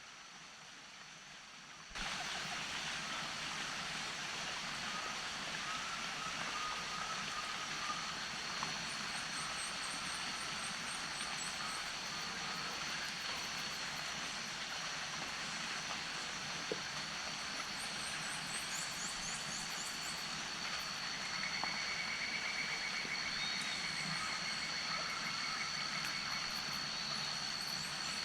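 Pantanal wetland ambience: insects hold two steady high-pitched tones over a steady hiss, with repeated short bird chirps, high descending chirps and a trill a little past the middle. It all gets suddenly louder about two seconds in.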